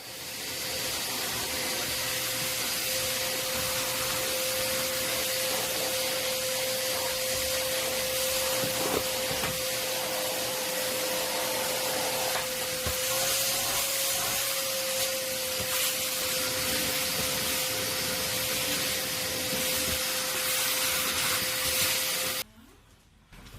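Large vacuum cleaner running steadily: a loud even hiss with a single steady whine under it, cutting off suddenly near the end.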